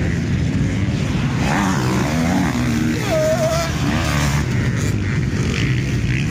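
Several motocross bikes' engines running and revving around the track. It is a continuous buzzing drone whose pitches rise and fall as riders open and close the throttle.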